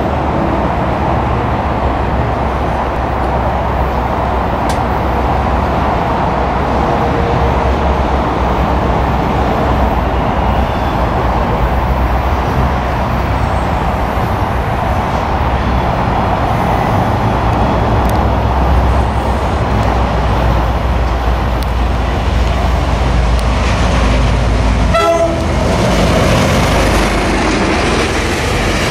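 Tri-Rail commuter train approaching, a steady rumble of locomotive and rolling train. About 25 s in it changes suddenly to passenger cars rolling past close by.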